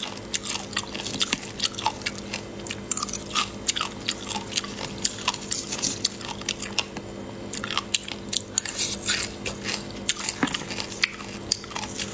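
Close-up chewing and biting of spicy marinated sea snail meat: an irregular run of sharp clicks and wet mouth sounds, over a faint steady hum.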